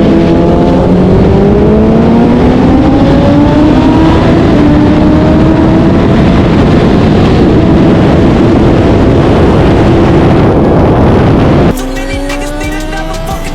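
BMW S1000RR's inline-four engine pulling hard at highway speed, its pitch climbing over the first few seconds and then holding steady, under heavy wind rush. Near the end it cuts off abruptly and music takes over.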